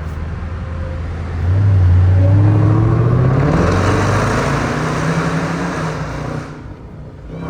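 Jeep Grand Cherokee Trackhawk's supercharged 6.2-litre V8 accelerating hard through a tunnel. The engine note surges about a second and a half in and rises in pitch for a couple of seconds, stays loud, then drops off suddenly as the throttle is lifted near the end.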